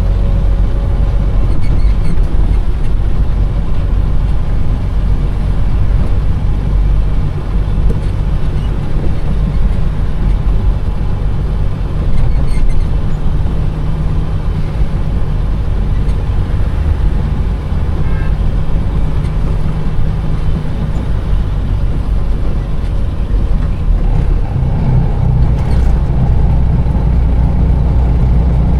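Container truck's diesel engine running steadily, with a noise of traffic around it; about 24 seconds in the engine note fills out and grows louder.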